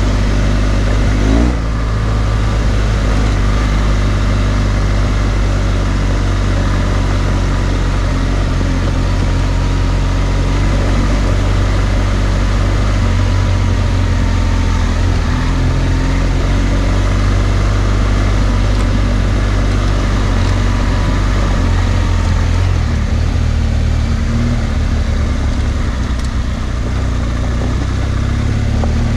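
BMW R1200GS Adventure's flat-twin boxer engine running under way on a gravel track, its note shifting as the throttle changes, with a brief rise about a second and a half in. A steady hiss of wind and tyres on gravel runs underneath.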